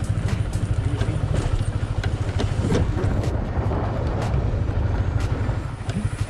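A moving road vehicle, with a dense, fast-pulsing low rumble and scattered short knocks.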